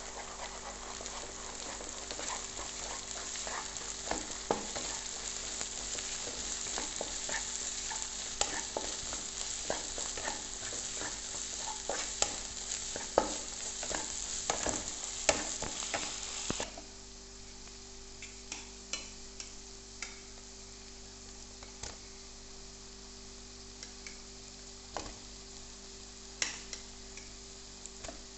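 Egg and chopped vegetables sizzling in oil in a pan while a spatula stirs and scrapes through them, with frequent sharp taps and clicks. About two-thirds of the way in the sizzle drops off suddenly, leaving a quieter hiss and scattered spatula taps.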